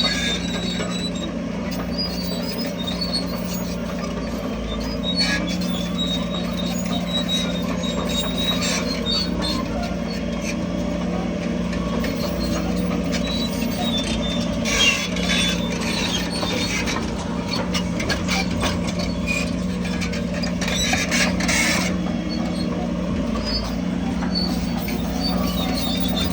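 Crawler bulldozer's diesel engine running steadily, with scattered high squeaks from the machine. The grinding noise grows louder twice, briefly about halfway through and again for a couple of seconds near the end.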